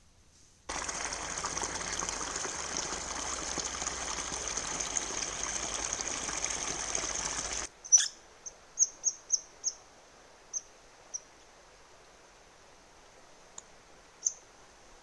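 A steady rushing noise, with a high hiss running through it, starts and cuts off abruptly after about seven seconds. It is followed by a sharp click and then a bird chirping in short, high notes, several in quick succession and then a few more spaced out.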